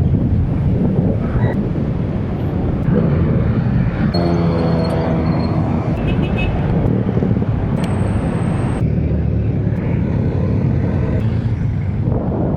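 Road traffic noise heard while cycling alongside motor vehicles, a steady rumble with a passing vehicle's engine hum standing out about four to six seconds in and a brief high whine around eight seconds in.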